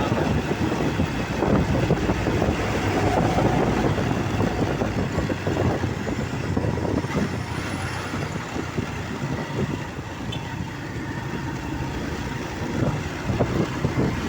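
Heavy truck diesel engines running steadily, a continuous low rumble with uneven knocks and rattles.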